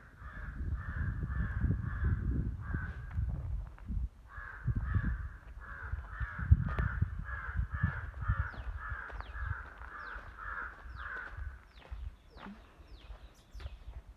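A bird calling in a long run of harsh, evenly repeated notes, about three a second, then stopping; near the end come quick, high, down-slurred chirps. A low, gusty rumble sits underneath and is the loudest sound at times.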